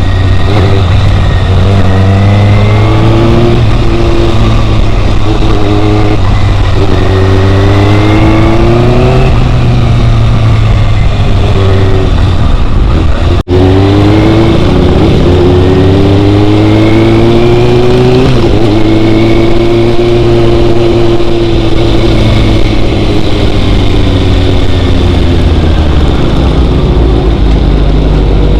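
Motorcycle engine under way, its pitch rising and falling several times as it speeds up and eases off, over a steady low rumble. The sound cuts out for an instant about halfway through.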